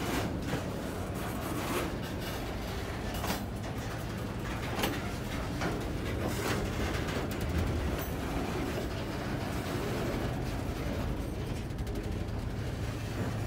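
Freight train of open-top hopper cars rolling past: a steady rumble of steel wheels on rail with scattered clicks and knocks.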